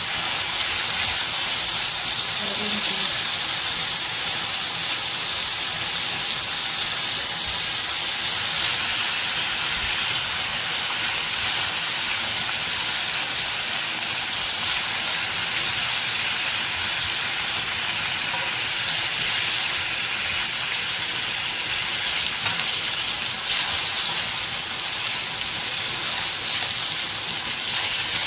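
Pork rib pieces sizzling as they fry in hot oil in a pan, a steady hiss.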